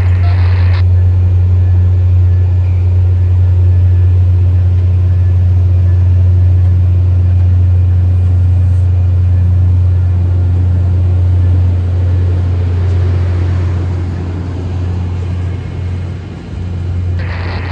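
Steady low vehicle rumble with a strong, even drone, easing off somewhat in the last few seconds.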